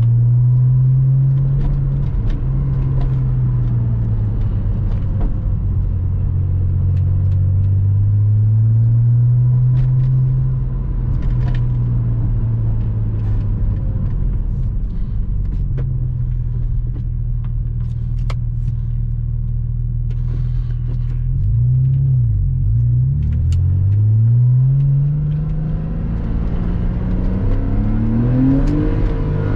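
Porsche Boxster 986's flat-six engine while driving, its note steady and rising and falling gently with the throttle. About three-quarters through, the revs dip and climb a few times as if through gear changes, and near the end they rise as the car accelerates.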